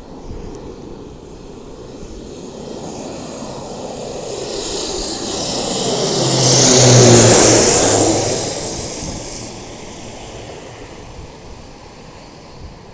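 Beech 1900C twin turboprop flying past as it comes in to land: its engine and propeller sound builds, peaks about seven seconds in with a droning tone that falls in pitch as it passes, then fades away.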